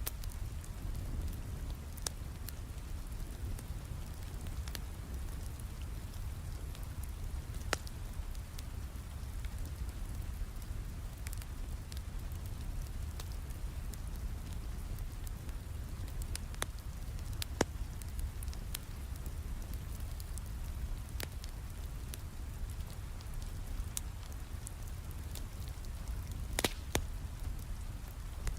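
Steady rain with a low rumble, mixed with a wood fire crackling: sharp pops every few seconds, several close together near the end.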